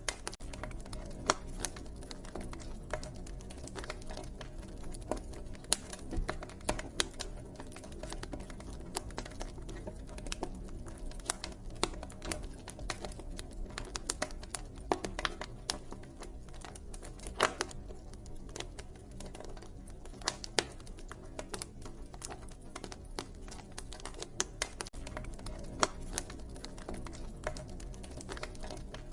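Wood fire crackling, with a constant scatter of small irregular crackles and occasional louder pops, over a low steady rumble.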